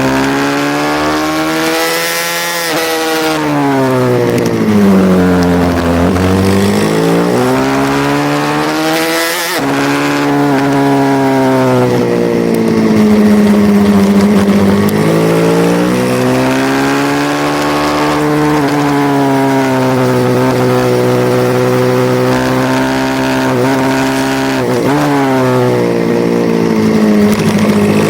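Racing pit bike engine revving hard, its pitch climbing through the gears and dropping away under deceleration, over and over.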